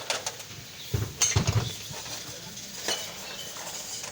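Scattered sharp metallic clinks and knocks, with a short run of low thuds between one and two seconds in.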